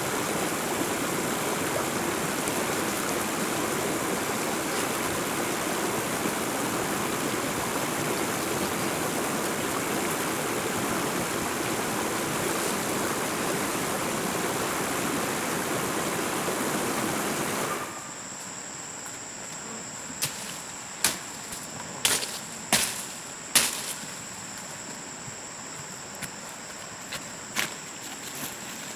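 Steady rush of running water, a stream or small waterfall, which cuts off abruptly about two-thirds of the way through. A quieter background with a steady high-pitched whine follows, broken by five or six sharp knocks.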